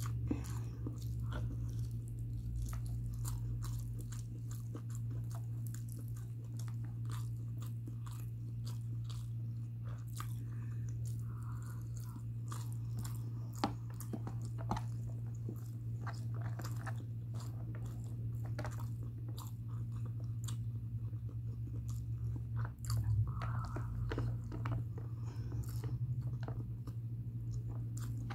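Close-up mouth sounds of someone eating mutton biryani by hand: chewing with many small wet clicks and smacks, over a steady low hum.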